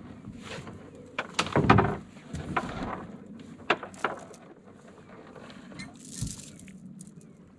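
Knocks, clicks and clatter of gear being handled aboard a small boat, with a loud thump about two seconds in and a brief rustle near the end.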